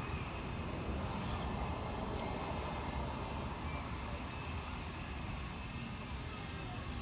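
Steady low engine rumble, swelling about a second in and slowly easing off.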